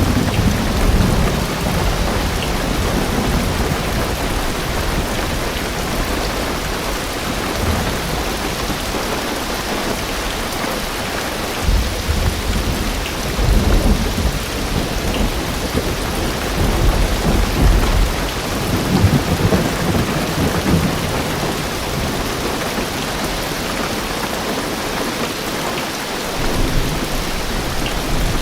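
Heavy rain drumming steadily on a car's roof and windows, heard from inside the car, with deep rumbles of thunder swelling up several times.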